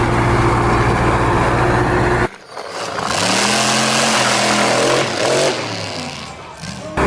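Vehicle engine running steadily, cut off abruptly a little over two seconds in; then a different engine sound whose pitch rises and falls, and the steady engine sound cuts back in near the end.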